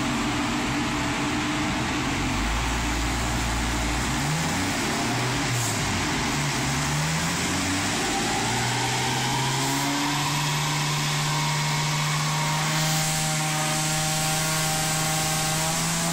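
Chrysler Hemi 265 straight-six on triple Weber carburettors, breathing through a ram-air intake box and running under load on a chassis dyno. The revs rise and fall a few times, then from about halfway climb slowly and steadily through a power run.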